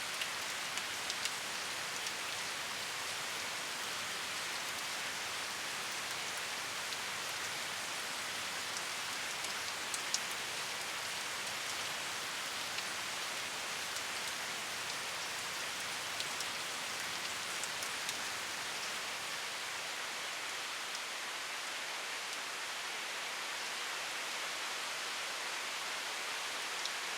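Steady rain, an even hiss with scattered louder drop ticks now and then.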